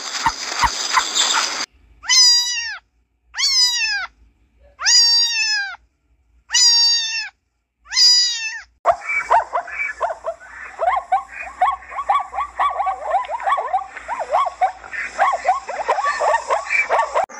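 Domestic cat meowing five times, each meow drawn out, rising and then dropping a little, about a second and a half apart, after a short hissing noise. About halfway through the meows give way to a fast, dense run of short yelping barks from zebras.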